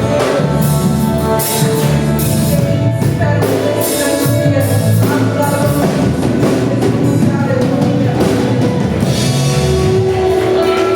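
Worship band playing music at full volume, with drum kit and sustained instruments and voices.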